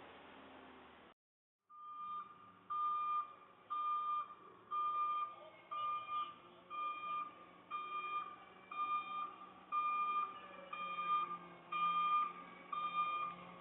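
Garbage truck's reversing backup alarm beeping at a steady pace, about two beeps a second, over a low engine hum. The beeping starts about two seconds in, after a brief break in the sound.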